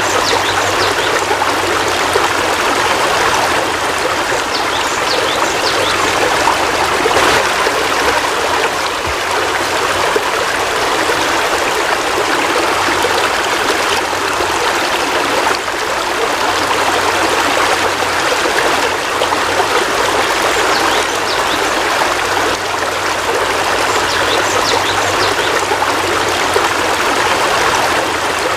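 Heavy rain falling steadily, a dense even hiss with no pauses.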